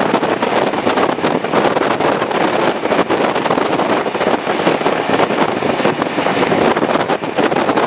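Heavy wind buffeting on the microphone held out of a carriage window, over the steady running noise of a steam-hauled passenger train at speed.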